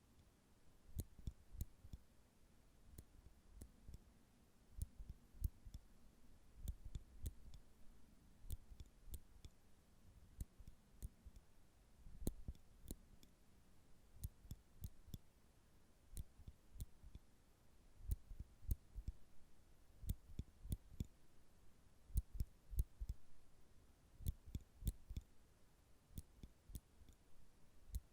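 Nail clippers clicking close to the microphone: irregular sharp clicks, often several in quick succession, many with a dull low knock beneath.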